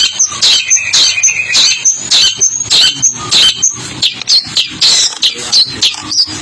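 Long-tailed shrike (pentet) singing a rapid, unbroken run of sharp, harsh notes, two or three a second.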